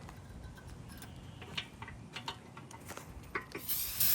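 A few light clicks and taps, then near the end an aerosol can starts spraying with a loud, steady hiss as cleaner is sprayed onto the outside of the engine block.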